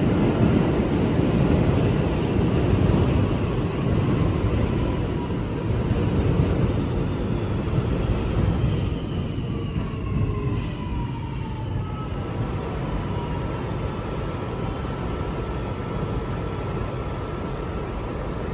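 Inside an R211 subway car: a steady low rumble with electric motor whine that falls in pitch through the middle and dies down, as the train slows to a stop at the station. A steady tone then hums on while the car stands.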